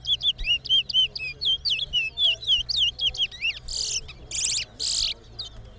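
Towa towa (chestnut-bellied seed finch) singing: a rapid run of short whistled notes, about four or five a second, that ends in three loud, harsh buzzy notes. It is one full song of the kind the judge counts in a bird race.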